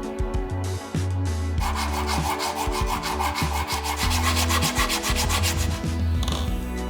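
Rapid back-and-forth rubbing strokes on leather, about ten a second, over background music. The strokes get louder about one and a half seconds in and stop about a second before the end.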